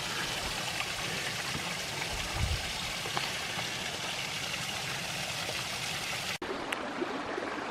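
Steady rush of water from a small creek waterfall and cascade. About two-thirds of the way through it breaks off briefly and comes back duller.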